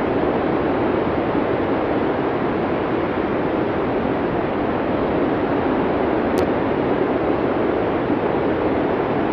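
Steady blizzard wind, an even low-pitched rush with no gusts standing out, and one faint click about six seconds in.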